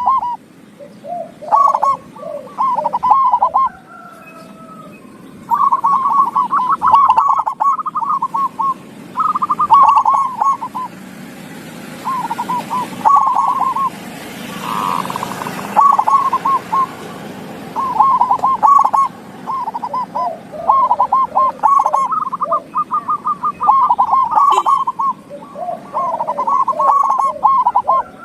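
Zebra doves (perkutut) cooing: quick staccato coo phrases of a second or two, repeated with short gaps, and now and then a lower voice overlaps. A soft hiss rises under the song about halfway through.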